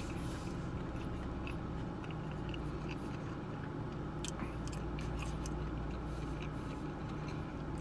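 A person chewing food with small mouth clicks and smacks scattered irregularly through it, over a steady low hum.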